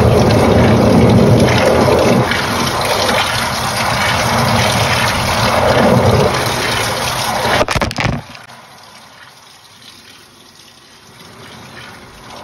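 Water rushing into the drum of a Panasonic NA-FA80H8 top-loading washing machine as it fills, cutting off suddenly with a few clicks about eight seconds in, leaving a faint low hum.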